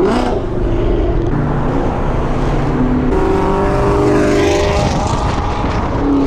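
Loud car engines revving, their pitch rising and falling over a continuous noise of exhaust and tyres.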